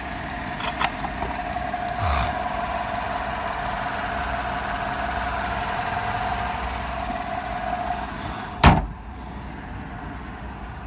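Pickup truck engine idling steadily, heard from the engine bay, with a few light knocks early on. Near the end comes a single loud slam, after which the idle sounds quieter and muffled.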